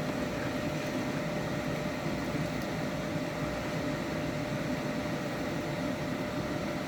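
Steady mechanical hum with a faint thin tone running through it, like a kitchen appliance fan.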